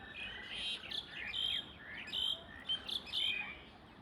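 Birds calling outdoors: a steady run of short, high chirps and quick falling notes, several overlapping, a few loud ones about every second.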